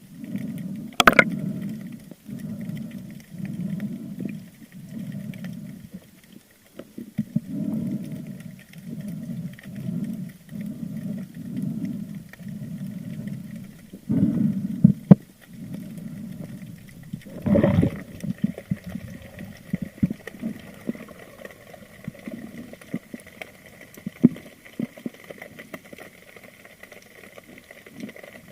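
Underwater water noise from a diver swimming, swishing in pulses about once a second. There is a sharp, louder splash-like sound about two-thirds of the way in. After that the swishing is quieter and a faint steady high tone runs underneath.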